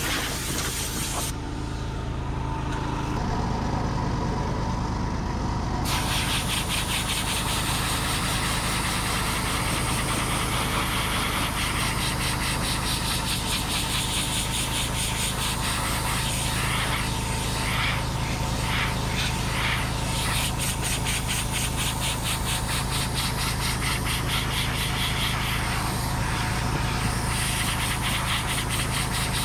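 Diesel engine of a Cat 259D compact track loader running steadily while it drives a forestry mulcher, a constant drone with a fast even pulse.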